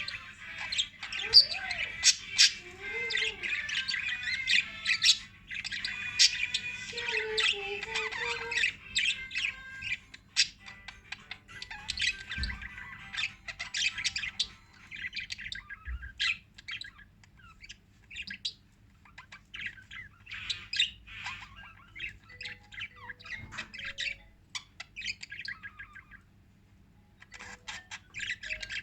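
Small pet parrots chirping and squawking: a dense flock chatter of rapid high chirps for about the first ten seconds, thinning to scattered chirps after that.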